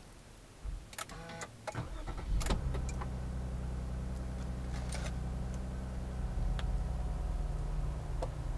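Toyota Mark X's V6 engine being remote-started by a VIPER 5902 starter, heard from inside the cabin: a few clicks, then the starter cranks and the engine catches about two and a half seconds in, settling into a steady idle.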